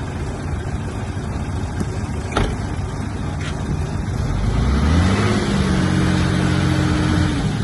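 Heavy construction machine's diesel engine running under load, revving up about four and a half seconds in and holding at the higher speed until near the end. A single sharp click about two and a half seconds in.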